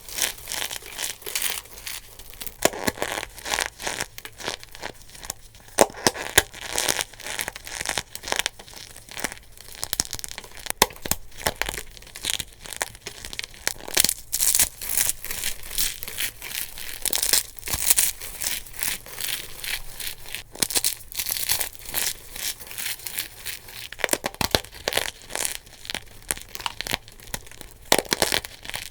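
Dried soap being crushed by hand: a dense, continuous run of crisp crackles and crunches.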